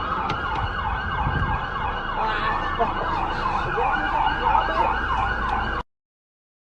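Emergency-vehicle siren in a fast yelp, its pitch rising and falling about three times a second, over low traffic rumble. It cuts off suddenly near the end.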